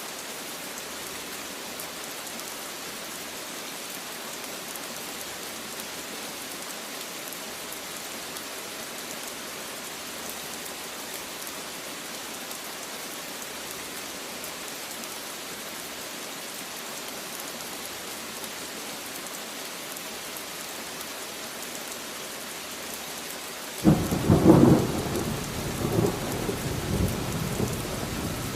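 Steady rain hissing. Near the end a sudden loud thunderclap breaks in and rumbles on in uneven swells.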